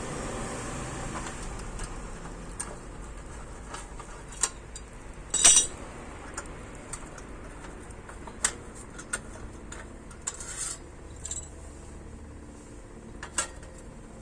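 Metal knocks and clinks on the warped steel grate of a fire pit that is being heated and hammered straight: about ten irregular strikes, the loudest about five seconds in. A steady hiss fades out near the start.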